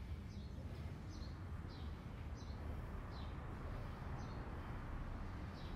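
A bird repeating a short, high, falling chirp about every two-thirds of a second, over a steady low background rumble.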